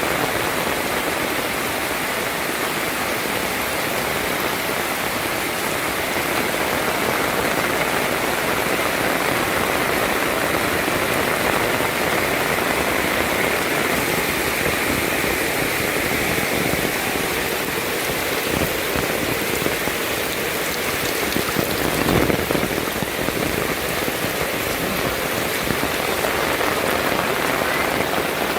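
Heavy rain falling steadily, with a brief louder low thud about three-quarters of the way through.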